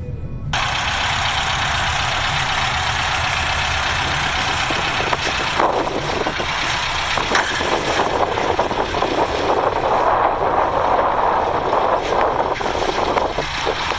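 Van engine running, a steady mechanical rumble; the sound shifts abruptly about half a second in and again around six seconds in.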